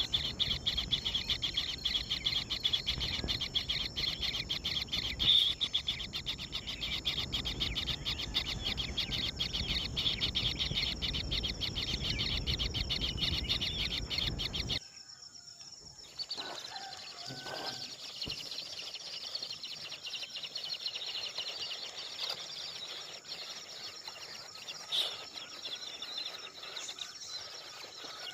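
Outdoor ambience of insects trilling in a fast, even pulse, with scattered bird chirps. About halfway through it cuts abruptly to a quieter scene of occasional bird calls and a fainter insect trill.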